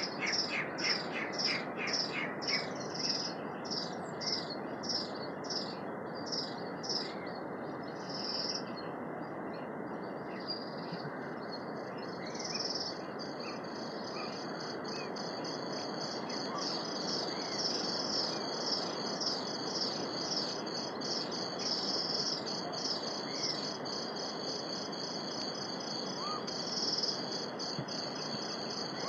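Native forest ambience. A bird calls in a rapid series of high, falling notes for the first several seconds. From about twelve seconds in, a steady high pulsing trill like an insect's chirring takes over, over a steady low hiss.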